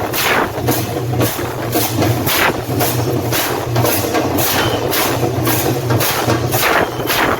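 Procession music: metal hand cymbals clashing in a steady beat about twice a second, over a low hum.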